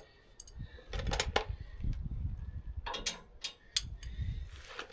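Wind rumbling on the microphone, with a few sharp metal clinks of hand tools, wrenches being tried on a bolt.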